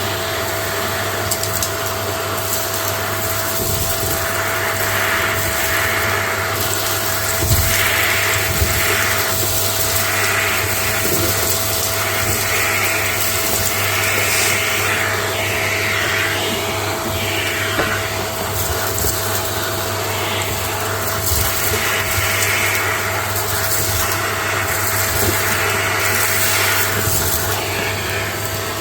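Vacuum cleaner running steadily with a constant motor hum, its suction rush swelling and fading every second or two as the nozzle is worked.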